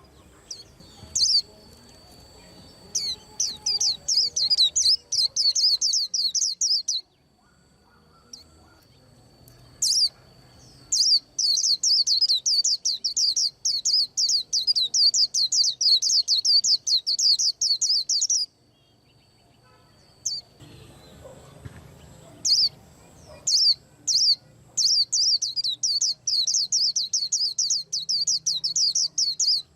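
White-eye singing: long runs of rapid, high-pitched chirping notes in three bouts, the middle one about eight seconds long.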